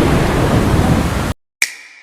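Loud, steady rush of water that cuts off abruptly about a second and a half in, followed by a single sharp click with a brief ringing tone.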